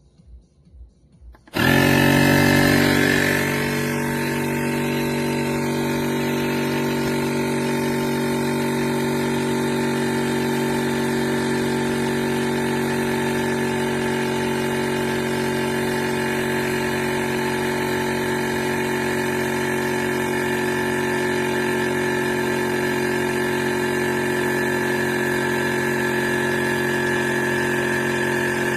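Inzeetor 12V portable tire inflator's compressor switching on with a few clicks, then running with a steady motor drone, a little louder for the first couple of seconds before it settles.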